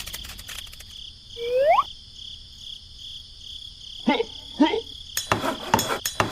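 Insects chirring steadily at a high pitch. A short rising call, the loudest sound, comes about one and a half seconds in, and two short calls follow about four seconds in. Clicking and tapping starts near the end.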